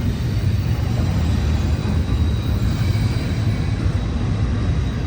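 Double-stack intermodal train's container cars rolling past, a steady low rumble of steel wheels on rail.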